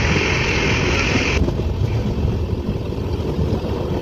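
Express passenger train running at speed: a steady low rumble with a loud rushing hiss on top that cuts off suddenly about a second and a half in.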